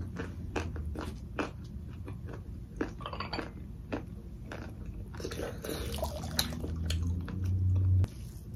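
Close-miked eating: chewing with many short wet mouth clicks and crunches. A low hum builds and stops abruptly about eight seconds in.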